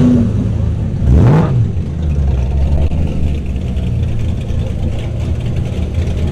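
Car engine idling with a choppy, lumpy lope, as from an aggressive camshaft. There is a short rev about a second in.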